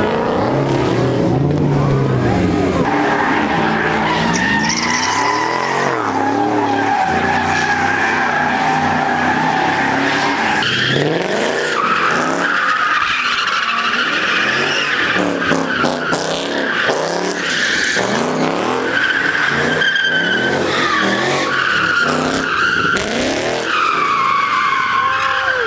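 Cars drifting: engines revving up and down with long, shrill tire squeals that come and go.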